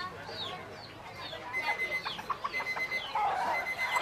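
Birds chirping: a run of many short, falling chirps, with a lower cluck-like call a little past three seconds in.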